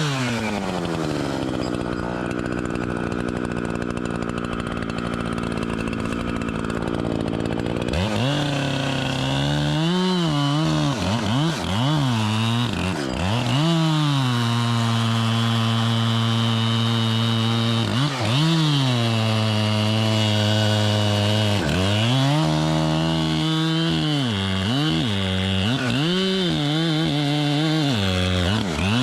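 Echo two-stroke chainsaw: its revs drop to a steady idle, which holds for about seven seconds. It is then revved again and again, with quick throttle blips and longer stretches held at high revs.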